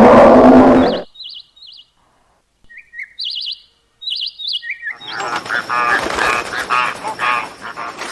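A big cat's roar that ends about a second in, then a few short, high bird chirps with silence between them, then from about five seconds a busier run of pulsed bird calls over a thin steady high whistle.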